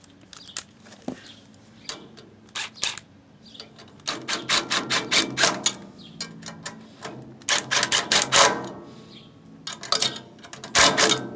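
Ratchet wrench with an 8mm socket clicking in three quick bursts, tightening down the screws that hold a carburetor to a small Briggs & Stratton engine.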